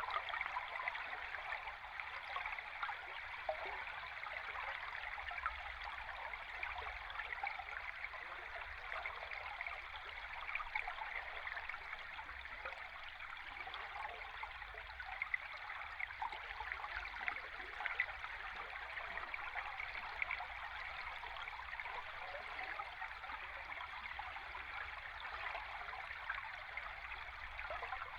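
A river stream recorded underwater: a steady rushing hiss of flowing water, flecked with tiny clicks and ticks.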